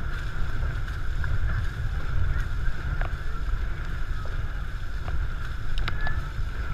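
Wind buffeting the microphone on a paddled race boat under way, a steady low rumble, with scattered faint knocks and splashes from the crew's paddle strokes.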